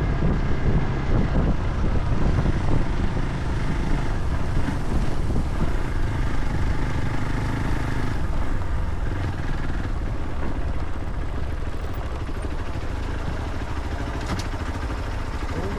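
A vehicle on the move: a steady low engine and road rumble, with no distinct events.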